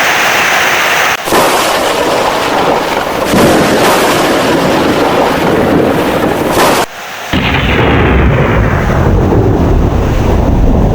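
Heavy rain and thunder: a loud, dense wash of noise that breaks off briefly about a second in and again near seven seconds, after which a deep, low thunder rumble takes over.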